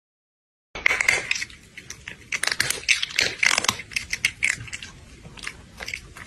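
Close-up chewing: irregular crunchy bites and crunches, starting abruptly about a second in.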